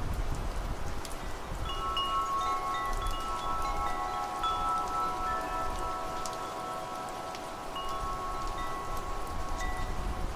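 Wind chimes ringing, several metal tones struck at different times and overlapping as they fade, over a low rumble of wind and scattered light raindrop ticks.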